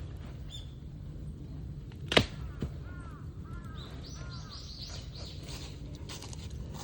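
Birds calling: a run of short arched chirps, then a quick series of higher chirping notes, over a steady low outdoor rumble. A single sharp crack, the loudest sound, comes about two seconds in, with a smaller one just after.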